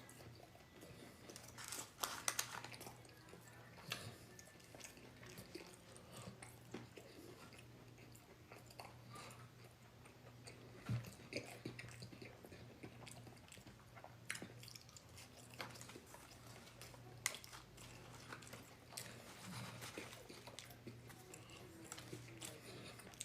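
A person chewing and biting food close to the microphone, faint and with scattered crunchy clicks, over a steady low hum.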